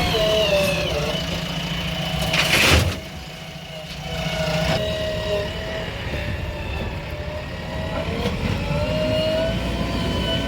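Heavy diesel engine running and revving up and down as the machine works. There is a brief loud rushing burst about two and a half seconds in.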